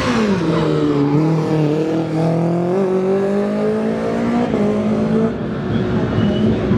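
A rally car's engine at full throttle. Its note drops sharply at the start, then climbs steadily for about four seconds, breaks at a gear change, and carries on at a lower pitch.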